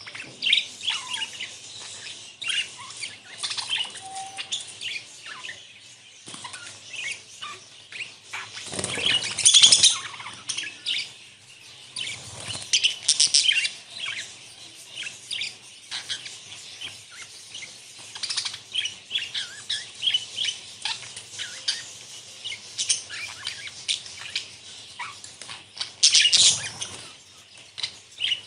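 A flock of budgerigars chirping and chattering with many overlapping short, high calls. There are louder rushes of flapping wings about nine seconds in and again near the end.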